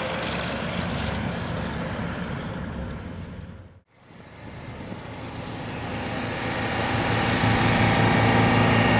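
Truck engine running steadily; the sound fades to silence a little before halfway and comes back up, rising in level toward the end.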